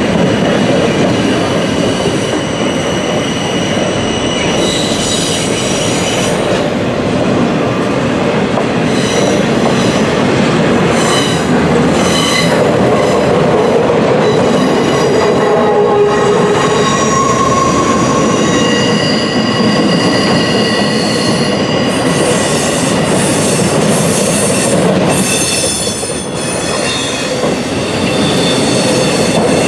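Freight train cars rolling past close by: a steady, loud rumble of steel wheels on rail, with high squealing tones from the wheels coming and going throughout.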